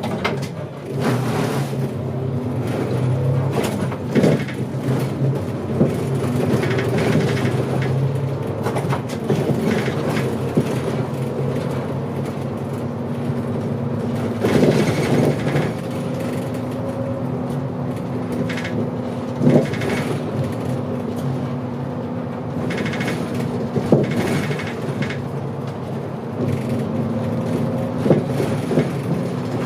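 Hino Rainbow HR city bus running, heard from inside: a diesel engine drone whose pitch shifts several times as the bus pulls away, changes gear and slows, with knocks and rattles from the body every few seconds.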